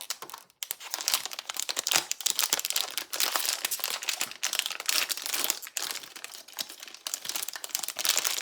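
Plastic packaging of a blind-box toy figure crinkling steadily as it is handled and opened by hand.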